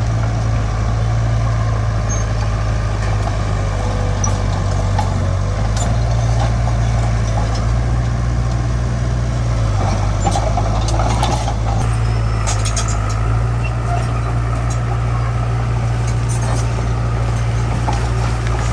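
Heavy earthmoving machinery's diesel engine running with a steady low drone that shifts slightly in pitch a few times, with scattered metallic clinks and rattles.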